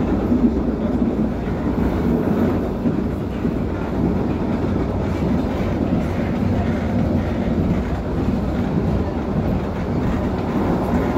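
CAF FGV 3700 two-car electric light-rail unit running along the line, heard from inside the passenger car: a steady noise of wheels on rail and running gear.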